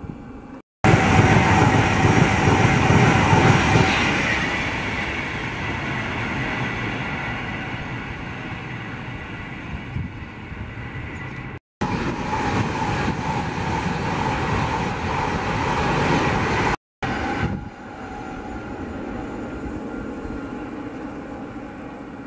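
Express passenger trains, Class 390 Pendolino electric units among them, passing at speed: a loud rushing of wheels on rail and air, loudest about one to four seconds in and then fading. It comes in three clips joined by short silent cuts.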